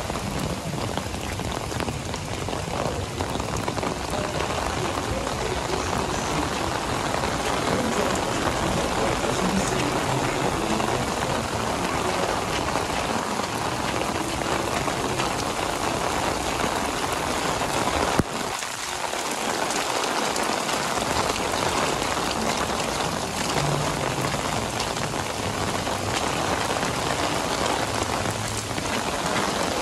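Heavy downpour: torrential rain falling steadily as a dense, even hiss.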